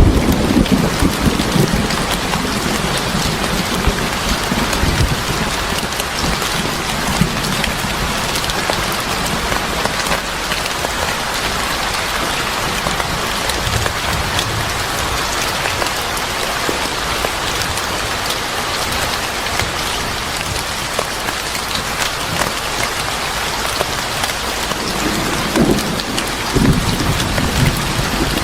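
Steady heavy rain, with a low roll of thunder at the start and another near the end.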